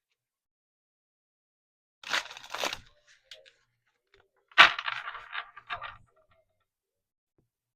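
A large deck of tarot cards being shuffled by hand: two bursts of card rustling, the first about two seconds in and a louder one starting sharply a little before five seconds.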